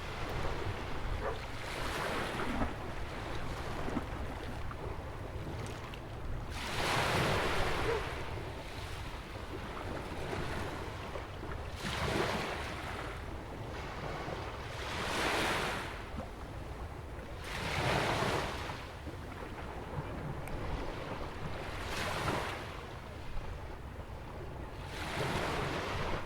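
Ocean waves breaking and washing against a jetty on a sandy beach, seven surges each swelling and fading over a second or two, about every three to five seconds. A low rumble of wind on the microphone runs underneath.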